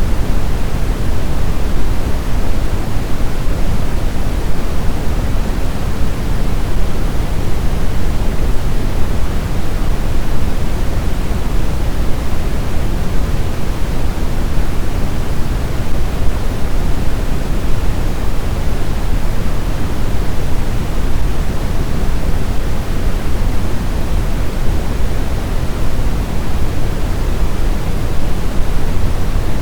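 Steady snowstorm wind: an even, deep rush without gusts, howls or breaks.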